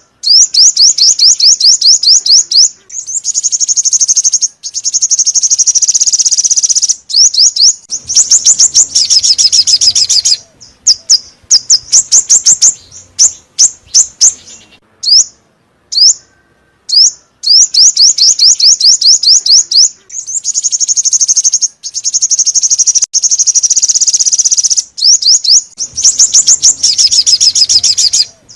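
Loud, repeated high-pitched song of a small songbird, the bird called chim 5 màu: fast runs of chirping notes lasting a few seconds each, broken by short gaps and repeating over and over like a looped lure call.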